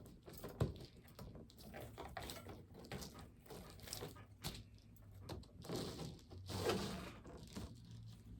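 Faint handling noises of artificial plastic greenery stems being worked into a wreath: irregular rustles and light clicks and taps, over a low steady hum.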